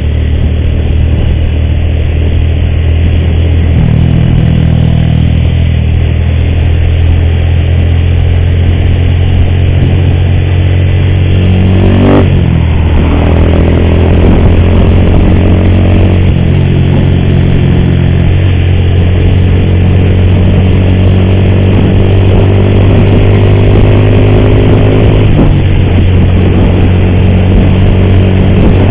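Motorcycle engine running under way, its note shifting pitch several times as the bike speeds up and changes gear. The rider says its timing chain is making an ugly noise.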